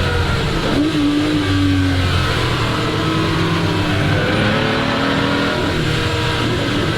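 Ferrari 250 GT SWB's Colombo V12 engine running hard at speed. Its note jumps up about a second in, holds, then climbs steadily again around the middle.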